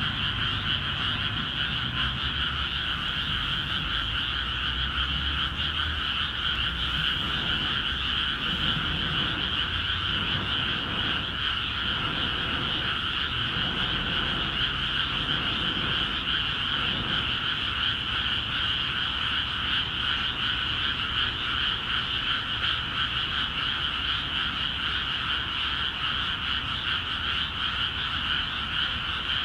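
Dense chorus of many frogs calling continuously from flooded rice paddies, a steady massed trilling with no break or change.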